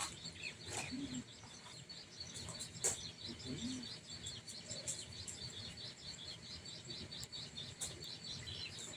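Small birds chirping faintly in a quick, continuous run of high-pitched chirps, with a couple of soft low sounds about a second in and again a few seconds later.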